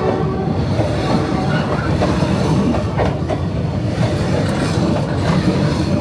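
Train passing at close range along a street-running track, its wheels and cars rumbling steadily with sharp clacks over the rail joints.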